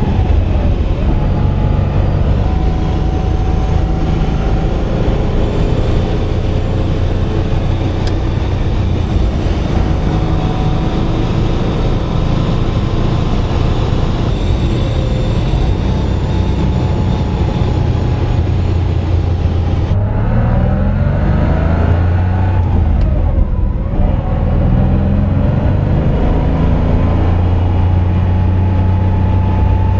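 1965 Porsche 911's air-cooled flat-six engine heard from inside the cabin while driving, running at steady revs for most of the time. About two-thirds of the way through, the engine note climbs and falls as the revs change, then settles again.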